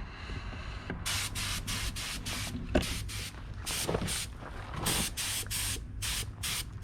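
Compressed-air spray gun fired in short bursts of hiss, about three a second with gaps, starting about a second in, as the truck's panels are sprayed. A steady low hum runs underneath.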